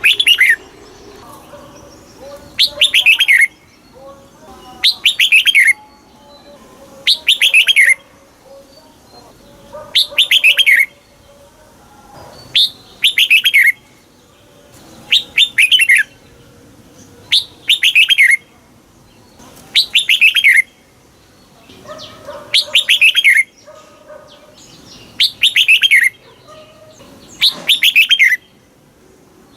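Red-whiskered bulbul singing the same short phrase over and over, about every two and a half seconds. Each phrase is a quick run of bright notes falling in pitch.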